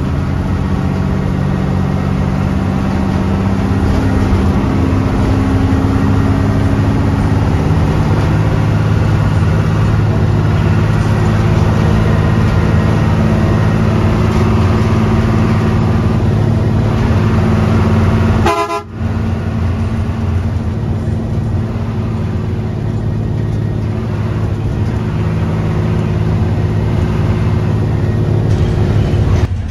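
Hino 1J coach engine running on the road, a steady drone whose pitch drifts up and down with speed. A vehicle horn sounds, with a short toot and a brief dropout about nineteen seconds in.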